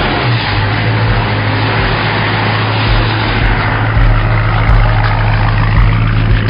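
Dodge SRT8 392 Hemi's 6.4-litre V8 running steadily while still cold, with a strong deep note that gets a little louder about four seconds in.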